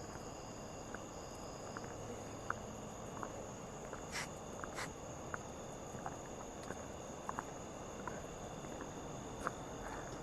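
Night insects, crickets among them, trilling steadily in several high tones, with scattered light clicks and ticks. The two most noticeable clicks come about four and five seconds in.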